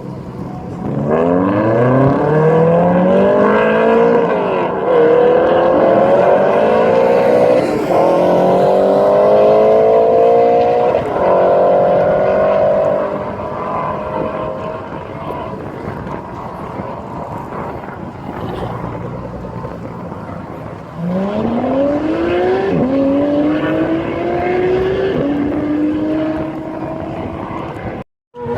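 A car engine accelerating hard through the gears twice: each time the pitch climbs, drops back at an upshift and climbs again, three shifts in the first pull and two in the second, which starts about two thirds of the way in.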